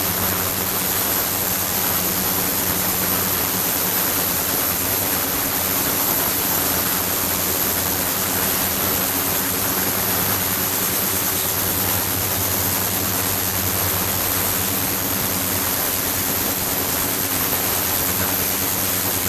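Steady rush of flowing water in an ultrasonic experiment setup, with a constant low hum and a thin, high-pitched whine throughout.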